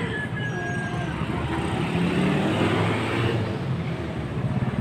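Motor vehicle engine running steadily close by, swelling slightly in the middle.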